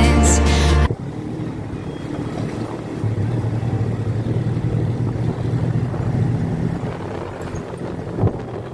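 Music with singing that cuts off about a second in, followed by a motorcycle engine running steadily under way.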